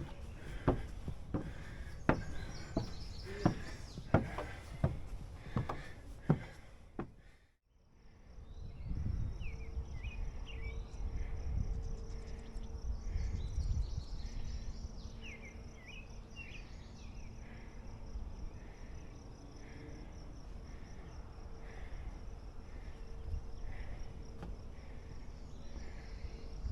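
Footsteps, sharp even steps about every 0.7 seconds, for the first seven seconds. After a sudden cut, forest ambience: insects chirping in a steady pulse about once a second over a thin high buzz, a few brief bird calls, and a low rumble of wind.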